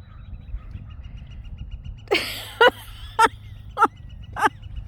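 A woman laughing in bursts. After a sharp breathy outburst about two seconds in, it goes on as a run of short 'ha' pulses, a little over one a second. Wind rumbles on the microphone throughout.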